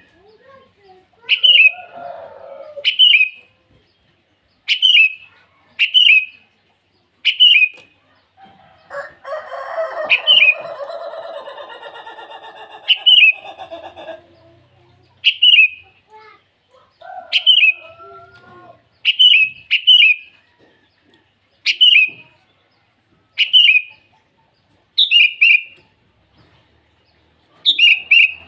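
Sooty-headed bulbul (kutilang) giving a challenge call to rivals: short, sharp, high notes repeated about once a second. A longer, lower call of about five seconds sounds near the middle.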